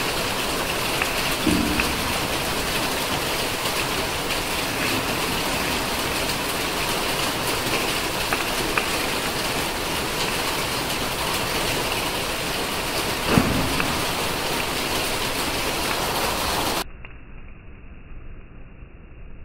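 Heavy monsoon rain, a steady loud hiss, with two short knocks of a spatula against the griddle, the second louder, about 13 seconds in. The hiss drops away abruptly near the end.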